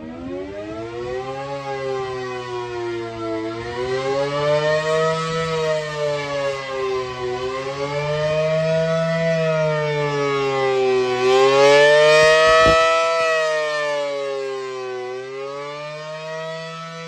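Outdoor civil defense warning siren sounding a wavering wail, its pitch rising and falling slowly every three to four seconds. It grows louder toward the middle and then eases off.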